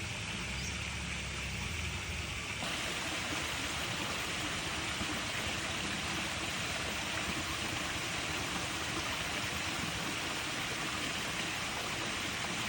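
Steady rushing water, an even hiss with no distinct events; it steps up a little in loudness about two and a half seconds in.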